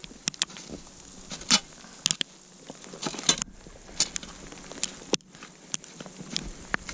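Campfire crackling, with irregular sharp pops and snaps of burning wood over a faint hiss.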